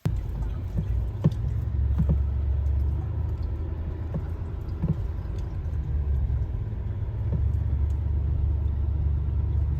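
Truck driving, a steady low rumble with a few scattered knocks and rattles.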